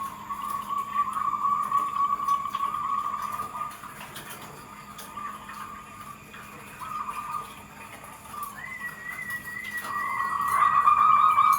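Zebra doves (perkutut) calling, a rapid rippling coo that breaks off and starts again several times, with a second, higher wavering call joining in near the end.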